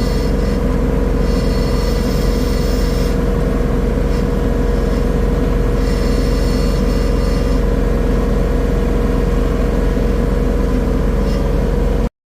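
A steady motor or engine drone with a constant hum, running at an even level, cutting off suddenly near the end.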